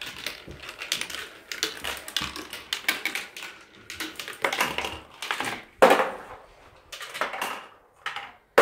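Two marbles clattering and rolling down a marble run: a rapid, irregular string of clicks, with two sharp louder knocks, one about six seconds in and one at the end.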